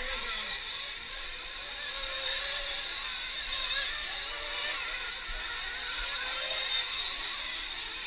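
Several 1/8-scale nitro RC truck engines running around the track, a high-pitched buzz that rises and falls as they rev.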